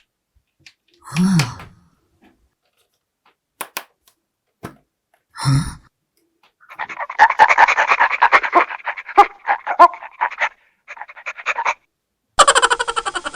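A string of short sound effects laid over the video: two brief separate sounds, then a run of rapid pulses lasting about four seconds, and a sharp-edged layered effect starting near the end.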